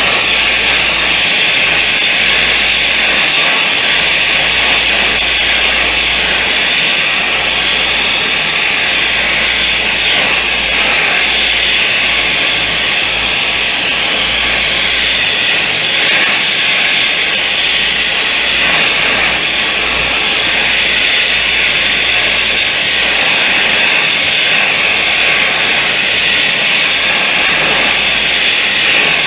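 A forge running: a loud, steady, jet-like hiss of air and flame while the poker's bar stock heats.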